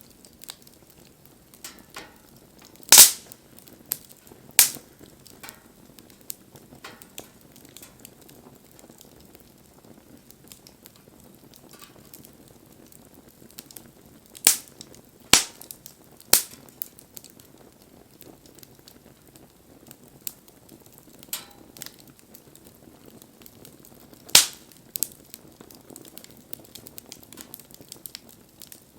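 Wood fire burning with a low steady hiss and scattered sharp crackles and pops, the loudest about three seconds in, in a cluster around fifteen seconds, and again near twenty-four seconds.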